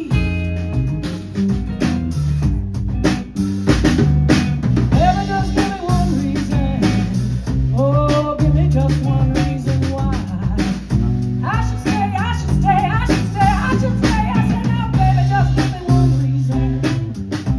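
Live band playing an instrumental break: drum kit with snare and bass drum keeping a steady beat under a bass line, with a lead line of bending notes coming in about five seconds in.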